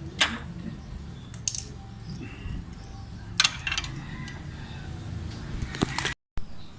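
Small sharp metallic clicks and taps, four or five spread over a few seconds, from handling tools and parts while working on a bicycle disc brake caliper, over a low steady hum.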